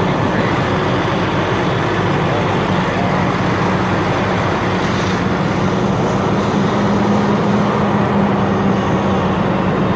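Vehicle engine running steadily, with a constant low hum under a broad wash of noise.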